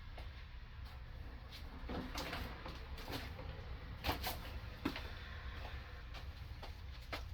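Scattered metallic clicks and clunks of hand tools being handled, a sharp pair about four seconds in and another just before five, over a steady low hum.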